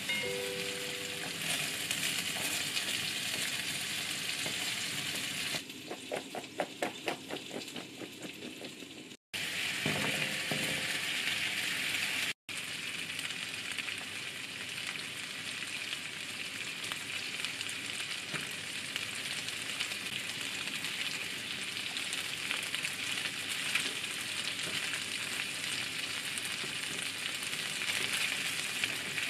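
Chicken pieces and sweet potato wedges sizzling steadily in oil in a frying pan, stirred with wooden chopsticks. About six seconds in, a quieter stretch with a quick run of taps breaks in for a few seconds before the sizzling resumes.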